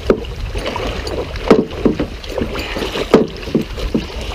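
Several short, irregular knocks and thumps in a fishing boat over a steady low rumble of wind on the microphone.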